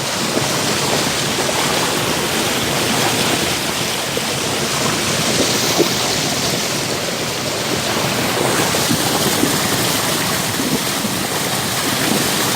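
Creek water rushing and splashing over rocks close to the microphone: a loud, steady rush.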